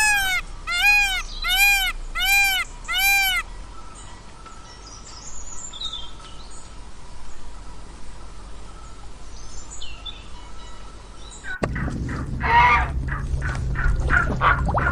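A bird calls five times in a row, each call a loud arched note rising and falling, about two a second. Faint chirps follow. Near the end the sound cuts suddenly to a low hum with a run of rapid, loud animal calls.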